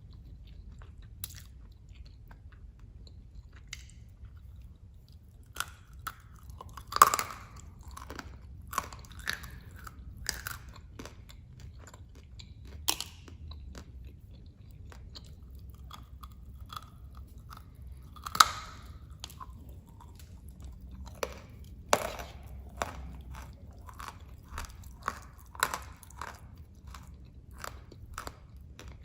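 Dry, hard clay chunks being bitten and chewed close to the microphone: sharp crunches and crackles at irregular intervals, with a few louder bites standing out.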